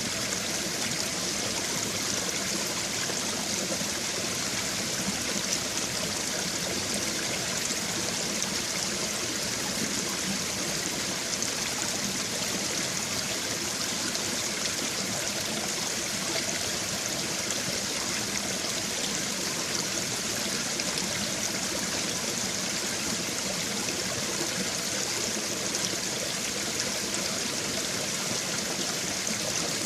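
A babbling brook: shallow stream water trickling and splashing over stones, a steady hiss of running water with no pauses.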